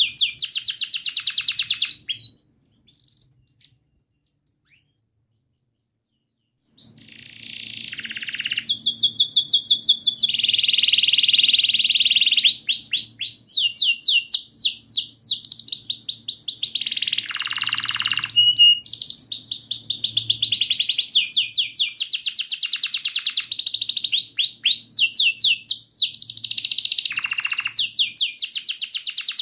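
Canary singing a long song of rapid repeated chirps and rolling trills. It breaks off about two seconds in, and after a few seconds of near silence it starts again and runs on without pause.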